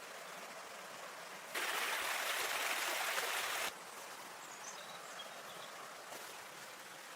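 Steady running water of a stream. About a second and a half in, a louder rush of water starts abruptly, lasts about two seconds, then cuts off just as abruptly.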